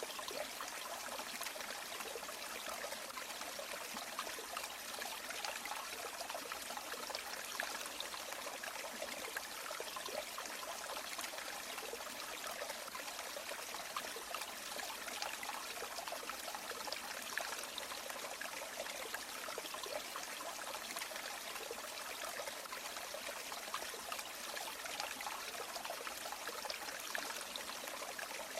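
A river or stream running steadily: an even, unbroken rush of flowing water with a fine bubbling texture and little low rumble.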